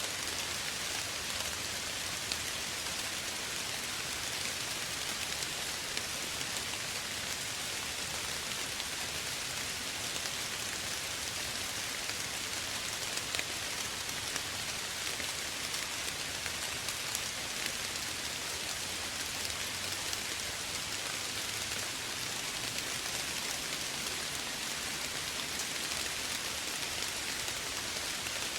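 Steady soft rain falling, a constant even hiss dotted with fine drop ticks.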